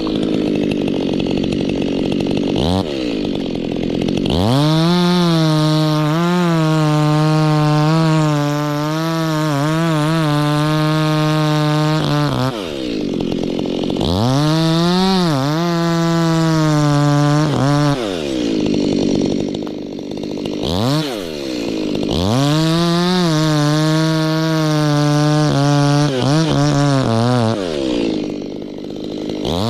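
Two-stroke chainsaw revved to full throttle three times in long runs of several seconds, cutting durian tree wood, with the engine dropping back to idle between runs.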